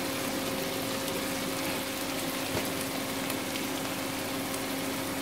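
Chopped onions and ginger-garlic paste sizzling steadily in hot oil in a non-stick pan, over a steady low hum.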